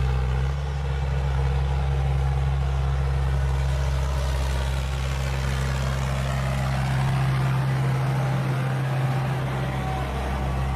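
Timberjack 810D forwarder's diesel engine running steadily with a constant low hum.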